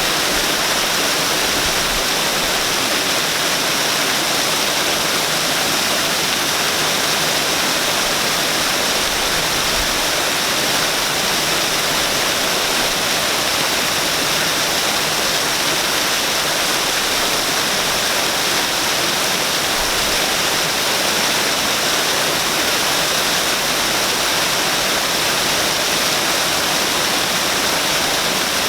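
Water of a waterfall pouring and splashing in a steady, even rush, with its hiss concentrated in the upper range and little low rumble.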